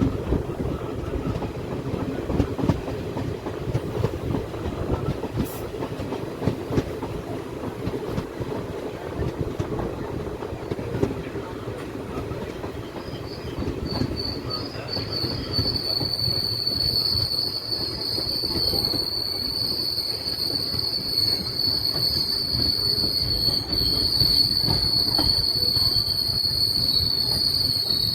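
Passenger train running on the rails: a steady rumble of wheels and carriage with small knocks. About halfway through, a high, steady squeal of wheels against rail sets in and keeps on.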